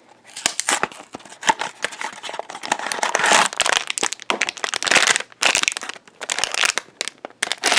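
Blind-box packaging of a collectible mini figure being torn open and handled: irregular crinkling and tearing throughout.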